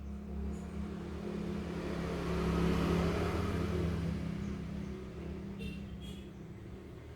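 A motor vehicle passing by: its engine and road noise grow louder to a peak about three seconds in, then fade away, over a steady low hum.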